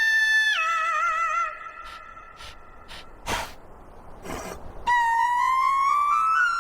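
Cartoon soundtrack of brassy, horn-like tones: a held note that wobbles and steps down, a quieter pause with a few light ticks and two short whooshes, then a tone that slides steadily upward near the end.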